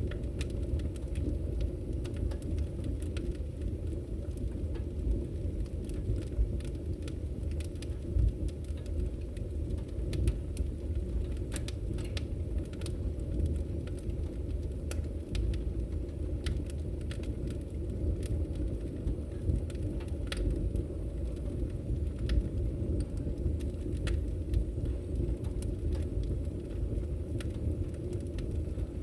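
Campfire burning: a steady low rumble of flames with scattered sharp crackles and pops at irregular intervals.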